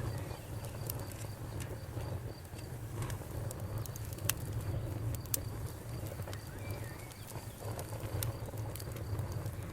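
Campfire burning with a steady low rumble and scattered sharp crackles and pops of the burning wood.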